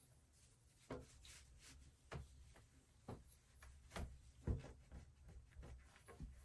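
Faint, irregular light clicks, taps and rubbing of household objects being handled during cleaning, with the sharpest knock about four and a half seconds in.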